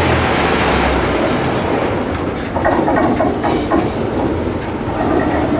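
A diesel-hauled train running slowly in on the adjacent track, its wheels clattering over rail joints from about two and a half seconds in, over the steady run of a diesel engine.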